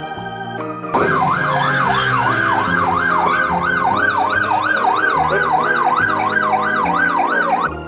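Electronic siren wailing rapidly up and down, about three sweeps a second. It starts about a second in and cuts off just before the end, over background music.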